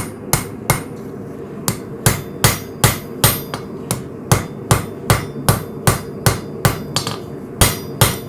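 Hand hammer striking hot coil-spring steel on an anvil, forging a knife blank. There are about three ringing blows a second, with a short pause about a second in, over a steady low rush.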